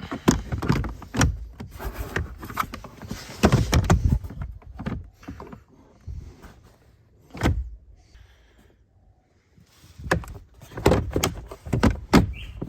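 Handling noise from fitting a car's cabin air filter and its plastic housing parts: groups of sharp knocks and clicks with sliding scrapes between them, with a lull in the middle.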